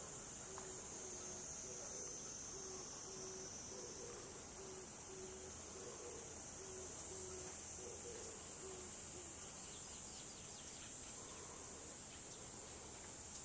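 A steady high-pitched chorus of insects, with a low hooting note repeating evenly a little more than once a second that stops about nine seconds in.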